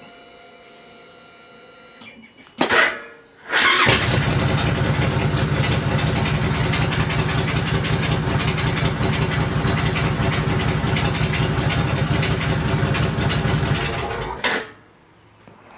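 2005 Suzuki Boulevard C90's 1500cc V-twin being started. A short, sluggish first turn of the starter comes about two and a half seconds in, then a second crank catches and the engine runs steadily for about ten seconds before it is switched off.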